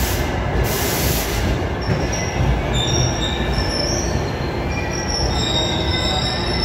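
NJ Transit single-level passenger coaches rolling past on the station track: a steady rumble of wheels on rail. A high hiss sounds in the first second or so, and thin high wheel squeals join from about the middle on.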